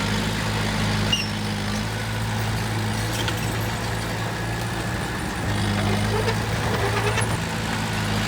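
Heavy diesel engine of earthmoving machinery running steadily. Its note steps up about five and a half seconds in and settles back about two seconds later.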